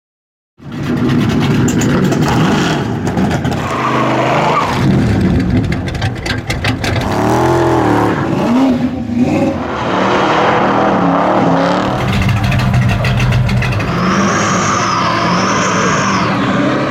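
American V8 muscle car engines revving and accelerating hard, in several short clips cut together, the engine pitch rising and falling. A high wavering squeal comes in near the end.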